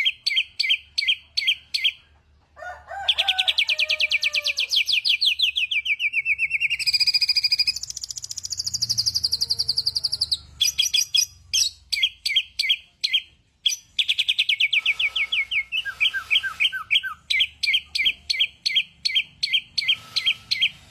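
A songbird singing continuously and loudly: fast runs of short repeated chirps at about four a second, broken by long rapid trills that slide a little down in pitch and a higher whistled phrase in the middle. Fainter, lower-pitched notes come in twice.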